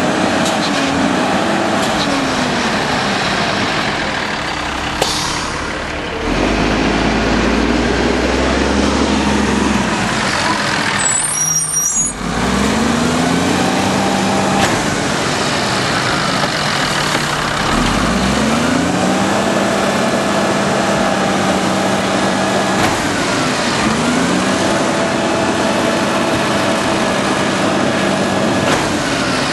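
Diesel engine of an automated side-loader garbage truck running and repeatedly revving up, holding high revs for a few seconds, then dropping back to idle, about four times in the second half.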